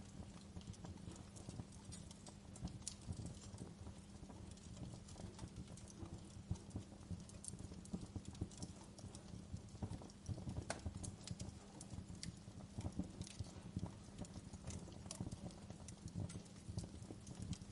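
Wood fire crackling in a fireplace: irregular snaps and pops of burning firewood over a low, steady rumble of the flames.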